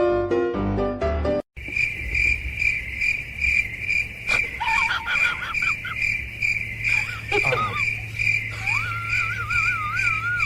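Piano music, then after a cut a cricket chirping in a steady pulse, about two or three chirps a second. High wavering gliding calls sound over it in the middle and near the end.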